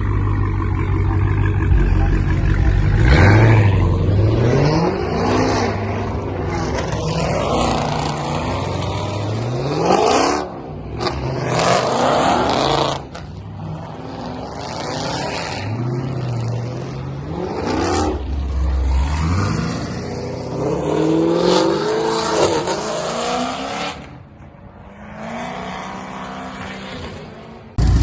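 Performance-car engines revving and accelerating away, one car after another, each rising in pitch through a rev then dropping with the shift or as it pulls off. The sound breaks off abruptly a few times.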